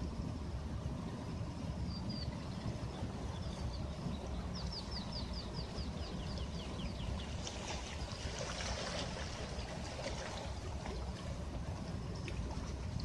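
Sea surf washing steadily, with a wave hissing up and fading from about 8 to 10 seconds in. Small birds chirp over it, with a quick run of repeated short high falling notes about 4.5 seconds in.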